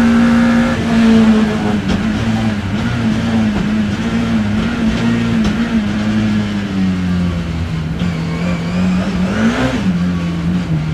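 BMW E30 M3's four-cylinder engine heard onboard, held at fairly steady revs that waver and slowly ease lower. Near the end it gives a short quick rise and drop in revs.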